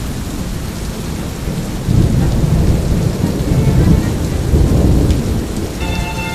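Steady rain with a long, deep rumble of thunder that swells about two seconds in and dies away about three seconds later.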